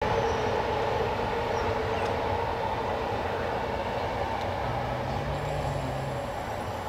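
Electric passenger train coming along an elevated track: a steady rolling rumble with two sustained ringing tones over it.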